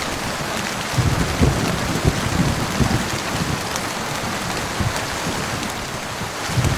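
Heavy rain falling steadily, with low, irregular rumbles of thunder underneath.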